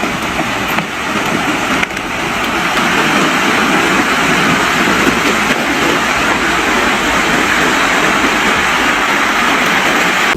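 A loud, steady rushing noise, with a couple of sharp knocks in the first two seconds, that cuts off abruptly at the end.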